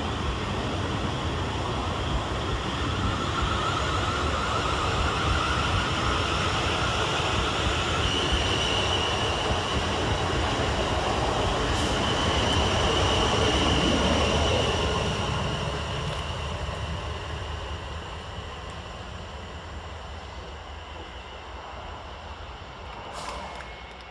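Two coupled Class 450 Desiro electric multiple units pulling away from the station, their traction motors giving an electric whine that steps up in pitch as the train accelerates. It grows louder until about two thirds of the way through, then fades as the train draws away.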